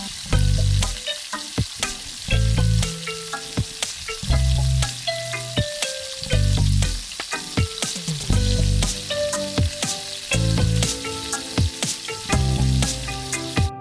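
Chicken curry sizzling as it fries in a pan while being stirred, with background music that has a deep bass note about every two seconds.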